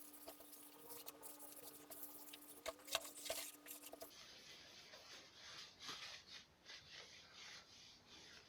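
Faint scratching and rubbing of hand work on wood, in short irregular strokes. A steady hum sounds under it for the first four seconds and cuts off abruptly.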